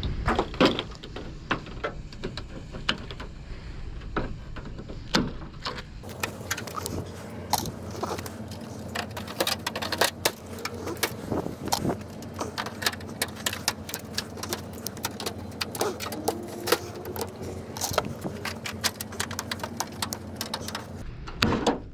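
Steel grocery-store shelving being handled and stacked: a long run of metal clanks, knocks and rattles, irregular and close together.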